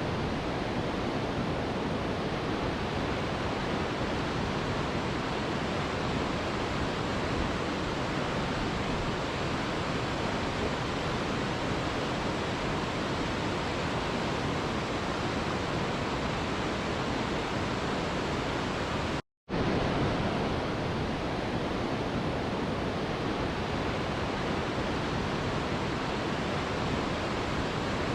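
Mountain river rushing in a steady, even wash of water noise. The sound cuts out completely for a split second about two-thirds of the way through, then resumes unchanged.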